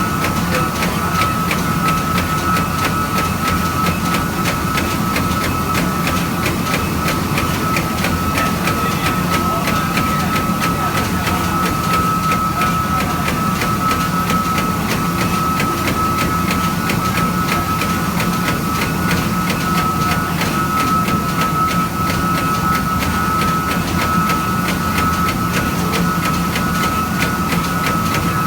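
Eight-spindle CNC machine running steadily: a constant high whine from the spindles over a low machine hum.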